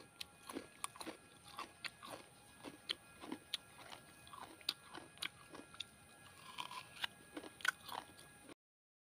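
A person chewing a mouthful of coconut flesh close to the microphone: a steady run of short crunches, about two a second, stopping abruptly near the end.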